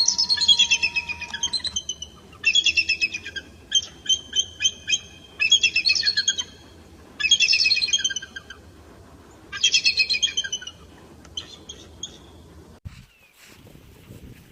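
Eagle calling in a run of rapid, high-pitched chittering notes. The notes come in about seven bursts of roughly a second each, with short pauses between.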